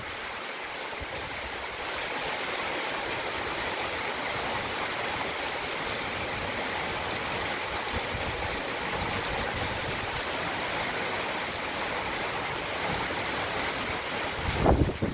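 Heavy storm rain pouring down in a steady, even hiss. Near the end a brief, loud, low burst breaks in, like a gust hitting the microphone.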